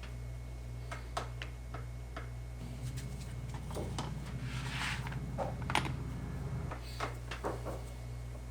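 Leather and hand tools being handled on a workbench: scattered light clicks and taps, with a short scraping sound about five seconds in, over a steady low hum.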